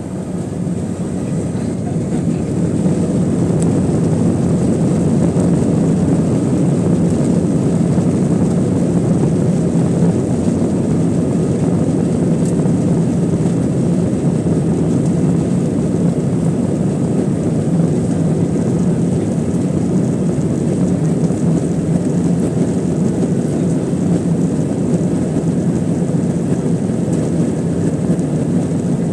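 Cabin noise of an Airbus A320-212's two CFM56-5A3 turbofan engines, heard from a rear seat, growing louder over the first few seconds and then holding at a steady, loud level as the engines run at high thrust.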